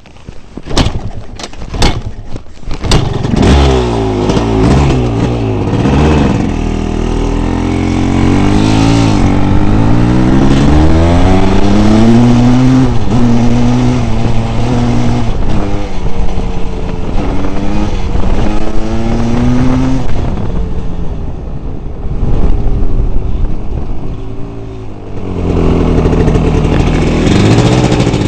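The single-cylinder two-stroke engine of a 1982 Maico 490 dirt bike firing into life with a few sharp pops, then running and revving with repeated rises and falls in pitch. It quietens for a few seconds about two-thirds through and picks up again near the end.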